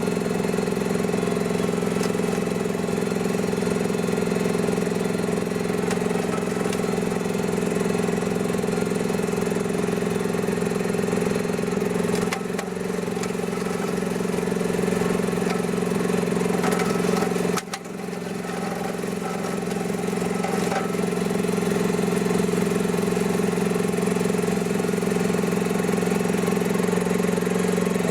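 Mini excavator engine running steadily while it drives a home-made hydraulic brush mower, its level dipping briefly twice, once a little before halfway and once about two-thirds through.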